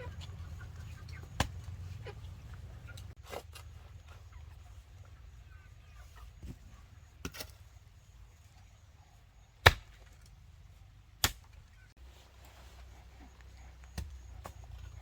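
About seven sharp knocks at irregular intervals, the two loudest close together about two-thirds of the way through, over a low steady hum.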